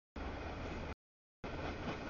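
CSX freight train of tank cars rolling past: a steady rumble of wheels on rail. It comes in two chunks under a second long, each cut off abruptly by a gap of dead silence where the audio drops out.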